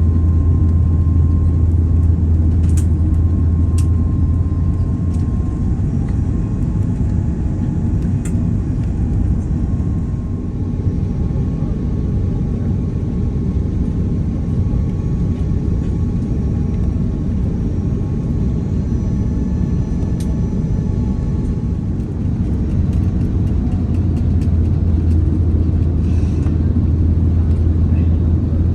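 Airliner cabin noise inside an Airbus A330-300 descending shortly before landing: a steady low rumble of airflow and engines, with a faint steady tone and a few light clicks.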